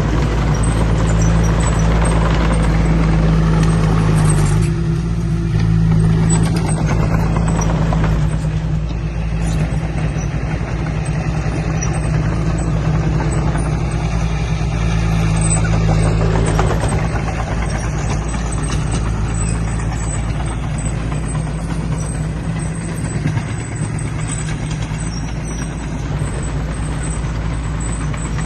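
Heavy earthmoving machinery's diesel engine running steadily under load, with a deep, even engine note throughout.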